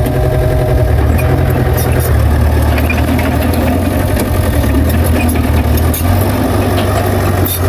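Heavy diesel engine of earthmoving equipment running steadily with a deep, even rumble, with scattered light clanks and clicks over it.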